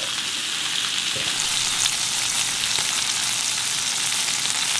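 Lamb searing in foaming butter with thyme and garlic in a cast-iron skillet: a steady frying sizzle with fine crackles and spatter.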